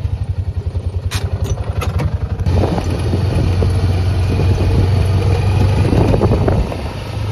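Deutz-Fahr tractor's diesel engine running, a steady low hum. It throbs quickly for the first two seconds or so, then sounds rougher and noisier with some rattling.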